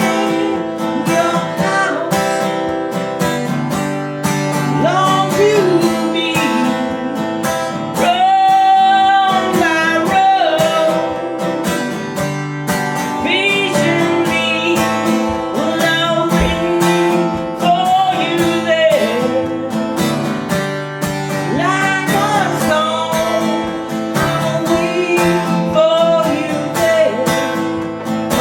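Alvarez acoustic guitar strummed steadily as song accompaniment, with a voice singing over it.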